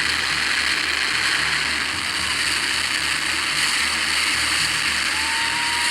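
Helicopter flying overhead: steady engine and rotor noise under a strong hiss, with a low pulsing throb from the rotor.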